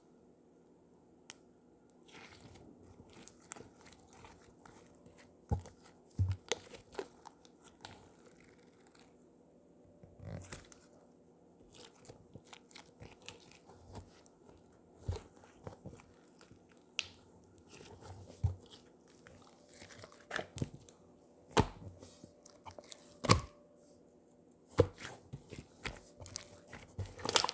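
Slime being pressed and pulled by hand, giving irregular sticky pops and clicks, some sharper and louder than others.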